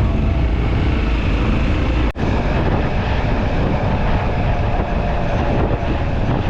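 Steady wind rush and road rumble on a motorcycle riding along, with a brief break about two seconds in.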